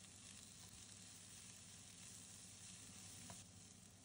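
Faint steady sizzle of chopped vegetables stir-frying in hot oil in a wok on high heat, stirred with a spatula.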